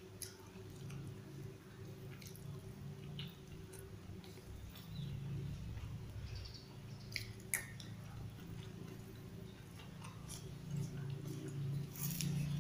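A person chewing a mouthful of rice and vegetables, with scattered small clicks and scrapes of a metal spoon on rice and wrapping paper, one sharper click about seven and a half seconds in. A steady low hum runs underneath.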